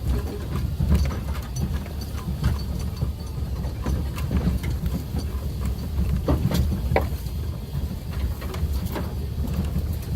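Suzuki Jimny driving along a rough forest road: the engine running low and steady, with scattered knocks and rattles throughout.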